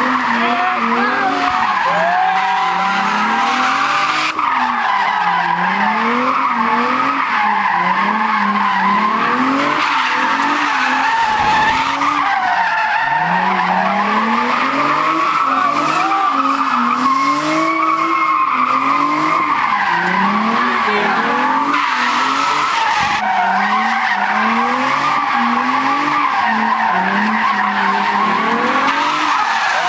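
A car doing a drifting stunt: the tires screech continuously while the engine revs up and down again and again.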